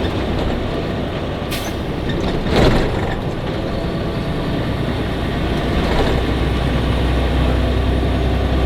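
Truck driving, heard from inside the cab: a steady low engine drone under road noise, with a brief louder rush about two and a half seconds in.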